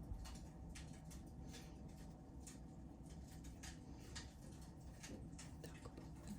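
Wood fire in a fireplace crackling softly: many small, irregular pops and snaps from burning logs.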